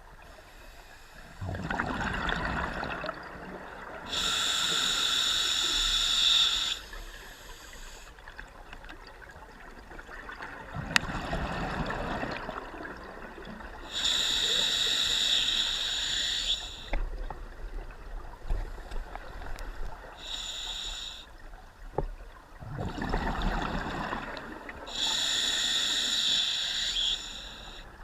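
Scuba diver breathing through a regulator underwater: a few slow breaths, each a gurgle of exhaled bubbles followed by a hissing inhale.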